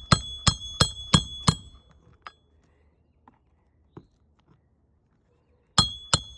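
A roofing hatchet hammering a nail into a shingle. It strikes about three times a second, each blow ringing with a high metallic tone. Five blows come in quick succession, then a pause with a few light taps, then two more blows near the end.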